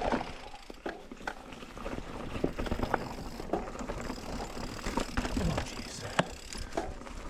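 Mountain bike riding over rocky singletrack: tyres on dirt and rock, with scattered sharp knocks and rattles from the bike.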